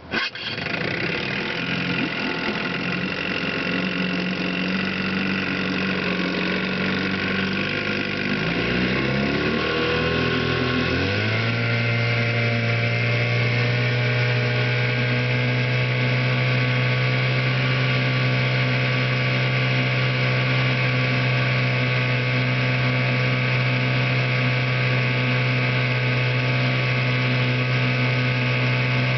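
1978 4 hp Johnson outboard motor, a small two-stroke twin, running. Its pitch climbs between about eight and eleven seconds in, then it holds a steady note.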